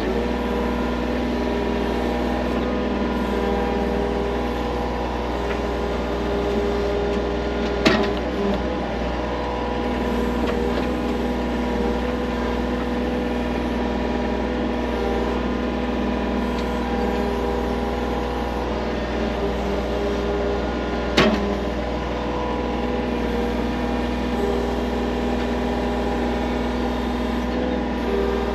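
Heavy earthmoving equipment engine running steadily, with two sharp knocks, one about a third of the way in and one about three-quarters through.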